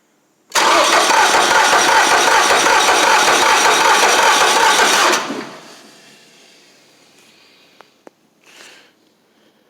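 Small gasoline engine of a 2016 CH6720H chipper being cranked and firing for about four and a half seconds on a start attempt without the choke, then cutting out and winding down.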